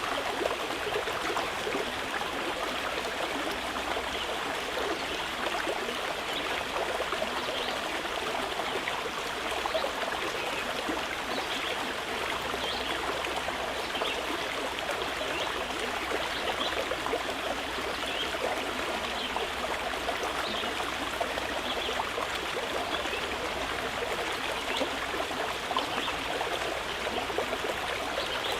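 Mountain river flowing steadily, an even rush of running water.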